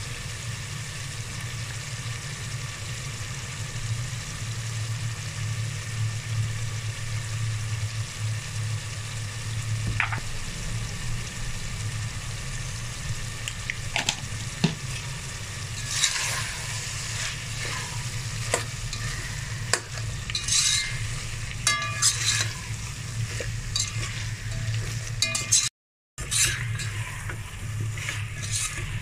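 Prawns and vegetables sizzling in oil in a metal pot over a steady low hum. From a little past halfway, a metal spoon stirs them, scraping and clinking against the pot, and the sound cuts out for a moment near the end.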